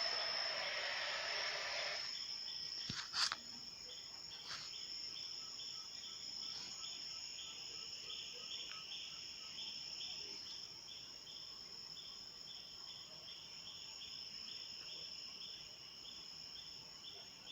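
A steady hiss like television static that cuts off abruptly about two seconds in. After it, night insects: a steady high-pitched buzz and crickets chirping rhythmically, with a couple of faint clicks.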